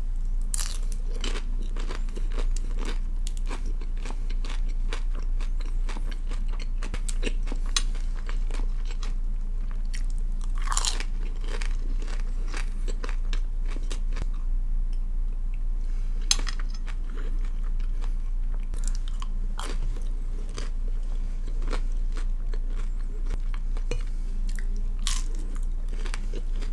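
Close-miked eating: bites and chewing of a rolled pancake dipped in ice cream, with many short mouth clicks and smacks throughout, over a steady low hum.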